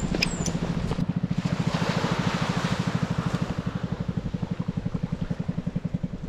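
A small engine puttering steadily, about eleven or twelve beats a second, that stops near the end.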